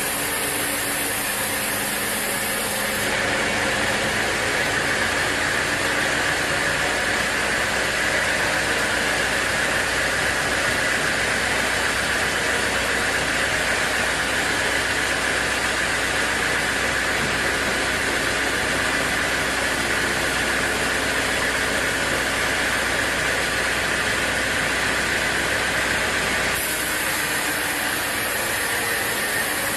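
Sawmill saw running steadily with a low rumble. About three seconds in it grows louder with a higher, hissing whine, which drops away a few seconds before the end.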